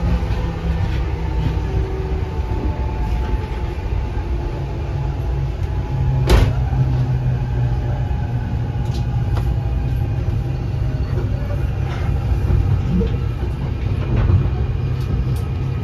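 Interior running rumble of an NJ Transit Arrow III electric multiple-unit railcar in motion, with a sharp knock about six seconds in and a few fainter clicks after it.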